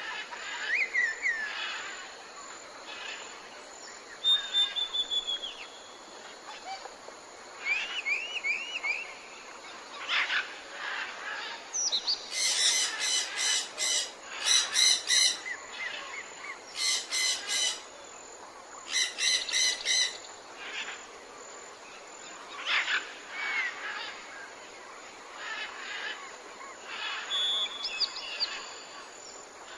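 Several wild birds chirping and whistling in short calls, with a few loud, fast rattling trills in the middle, over a steady outdoor background hiss.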